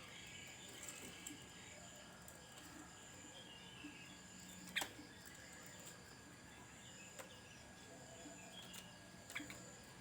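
Faint, scattered bird chirps over a steady low hiss, with a sharp click about five seconds in and two fainter clicks later.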